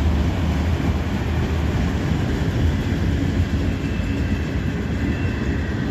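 Freight train cars rolling past on the rails: a steady rumble of wheels and cars, with a faint high-pitched squeal from the wheels near the end.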